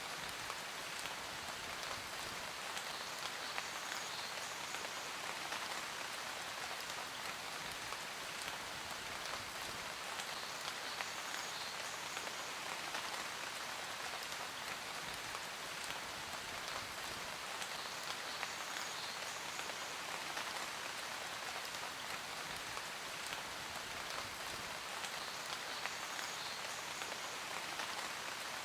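Steady rain falling, an even hiss with many small drop ticks spattering on a surface.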